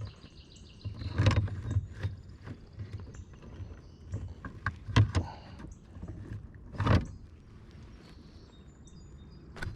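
Irregular knocks and bumps on a fishing kayak, with water sounds, as a freshly caught smallmouth bass and gear are handled aboard; the loudest knocks come about a second in, around five seconds and near seven seconds.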